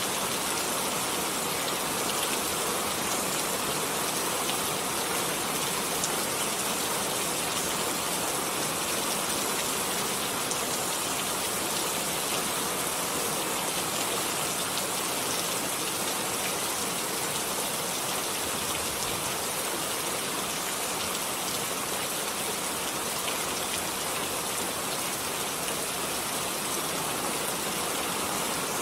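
Steady rain falling, a constant even hiss with the faint patter of individual drops.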